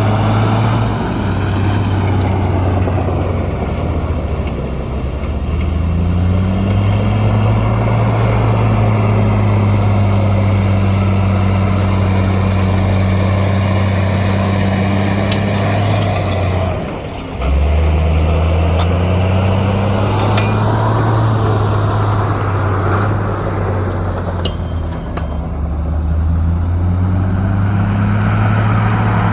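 Heavy diesel engine of earthmoving machinery running steadily under load. Its pitch drops and climbs back several times, with a short dip in level about two-thirds of the way through.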